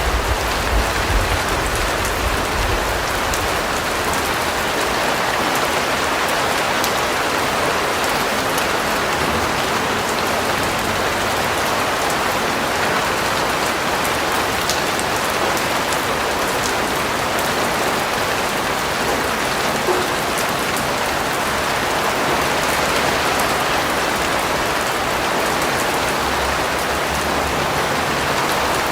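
Steady rain falling, an even hiss with fine scattered drop ticks, with a low rumble under it in the first few seconds and again near the end.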